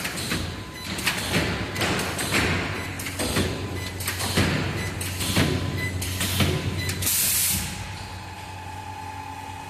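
Pallet multi-spot welding machine working: clanks and thumps, most at about one a second, over a steady electrical hum, then a short loud hiss of pneumatic air release about seven seconds in, after which the machine runs on with a steady hum.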